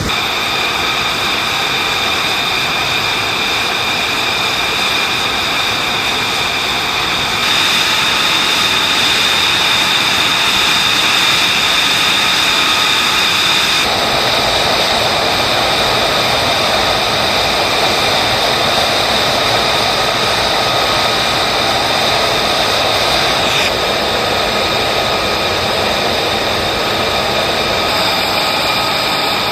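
Military jet engines running at high power: a steady rush with a high, constant whine. The sound shifts abruptly three times, about a quarter, half and four-fifths of the way through.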